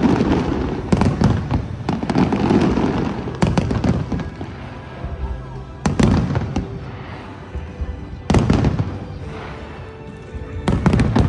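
Aerial fireworks display: a string of loud shell bursts, each a sharp crack followed by a rolling rumble, about every two and a half seconds.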